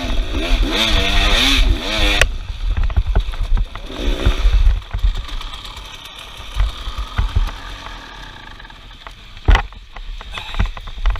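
Music that cuts off suddenly about two seconds in, followed by an uneven outdoor rumble of wind buffeting the microphone, with scattered clicks and one sharp knock near the end.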